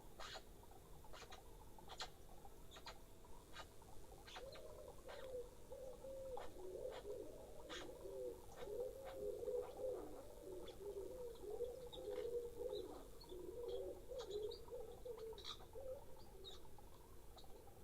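A pigeon cooing in a low, wavering run that starts about four seconds in and stops a little before the end, with scattered short sharp ticks or chirps throughout.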